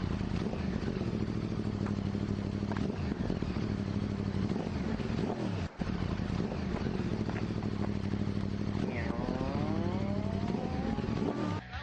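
An engine running steadily, with a brief dropout about halfway through and a wavering, pitched whine in the last few seconds.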